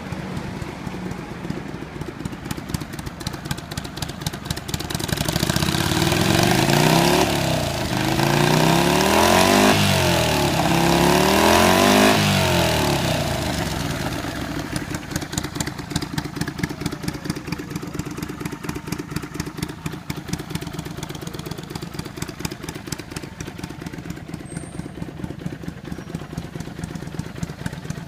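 Kawasaki Vulcan 400 Drifter's V-twin engine idling with an even pulse. In the middle it is revved up and down several times in a row, then drops back to a steady idle.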